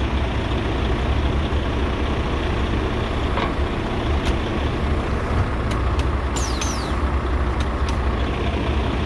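Heavy truck diesel engines running steadily at idle, with a few sharp clicks and two brief falling squeaks about six and a half seconds in.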